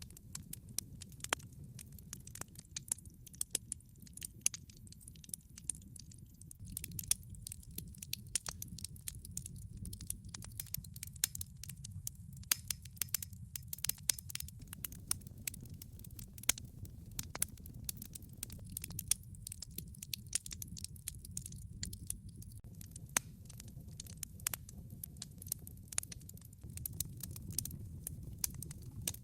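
Wood fire burning in a fireplace: a steady low rumble with many sharp, irregular crackles and pops from the logs.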